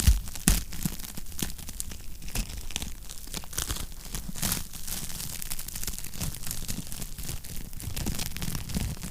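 Wood fire crackling in a fireplace: a steady run of small irregular snaps over a low rumble of the flames, with two sharper pops near the start.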